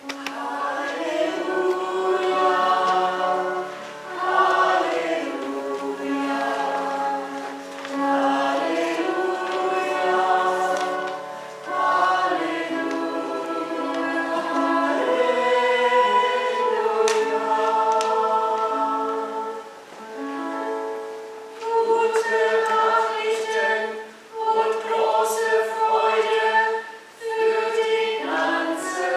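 Church choir singing in harmony, in several phrases with short breaks between them.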